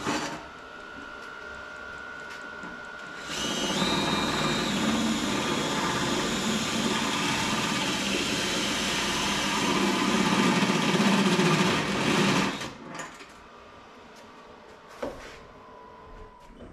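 A power tool running loud and steady for about nine seconds, starting a few seconds in and cutting off abruptly, followed by a single knock.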